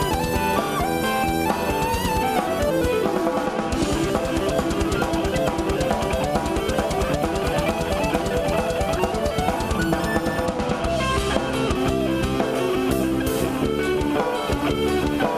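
Progressive metal band playing live, an instrumental passage with no singing. Electric guitar and a full drum kit play rapid runs of notes rising and falling over steady drumming.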